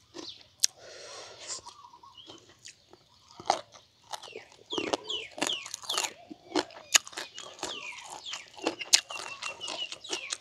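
A person chewing crunchy mouthfuls of papaya salad and raw vegetables close to the microphone, with wet crunching and smacking. It is sparse at first and more continuous from about the middle on.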